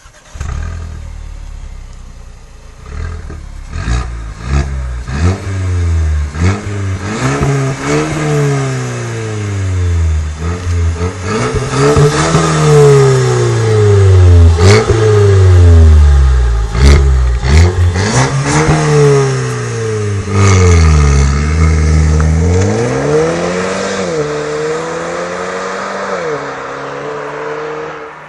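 Mercedes-Benz A250 Sport's 2.0-litre turbocharged four-cylinder engine starting, then revved hard again and again at standstill, the revs climbing and falling, with sharp cracks from the exhaust. About twenty seconds in the car pulls away and accelerates, and the sound fades as it drives off.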